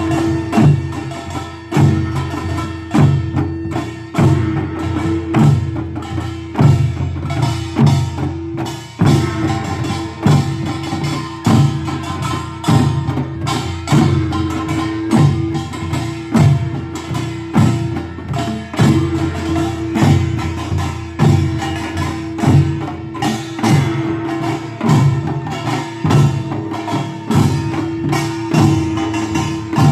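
Korean pungmul folk percussion band playing a steady driving rhythm: drum strokes in a regular beat with a metallic gong tone ringing on underneath.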